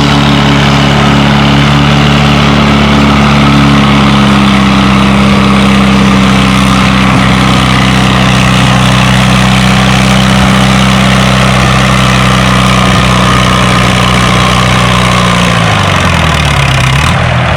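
Massey-Harris 44 Special tractor engine running hard at a steady pitch while pulling the weight-transfer sled, then dropping in pitch near the end as the tractor is pulled down to a stop.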